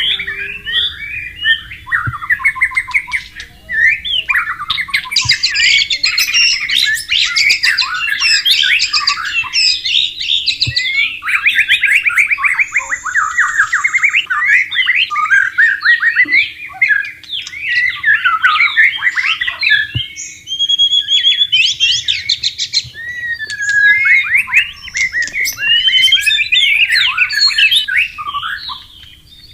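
White-rumped shama singing a long, varied song of fast whistled phrases and rapid trills, with a few short breaks.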